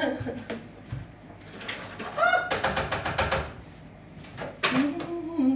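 Chopped onion tipped into hot sunflower oil in a pan: a dense burst of sizzling and crackling for about a second, past the middle. A woman gives a short rising vocal sound just before it and hums near the end.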